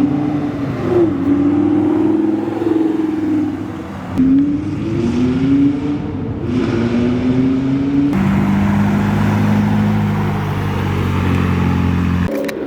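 A car engine accelerating hard through the gears. Its pitch climbs and drops back at each upshift, about four and six and a half seconds in, then gives way to a steadier, lower engine drone from about eight seconds in.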